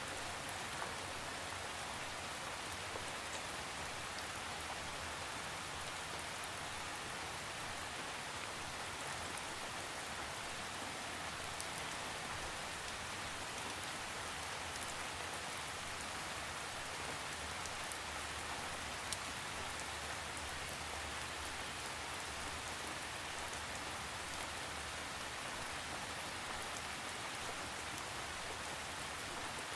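Steady rain falling and pattering on a surface, with no thunder, and a few sharper drop ticks now and then.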